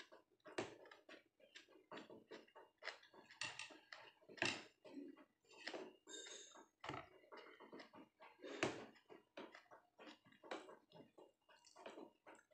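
Close eating sounds: quick, irregular chewing and lip smacks as rice and sambal are eaten with the fingers, with a few sharper clicks against the plate, one about half a second in, one near the middle and one about two-thirds through.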